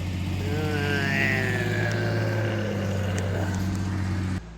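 A vehicle engine idling steadily, with a drawn-out falling voice-like sound over it for about two seconds; the engine sound cuts off abruptly near the end.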